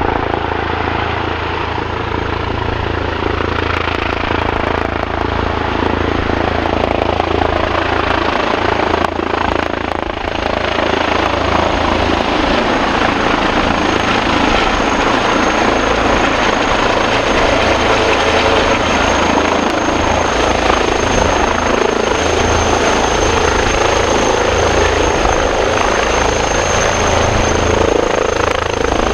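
Helicopter running close by, a loud, steady mix of rotor and engine noise, with a high thin whine that grows stronger in the second half.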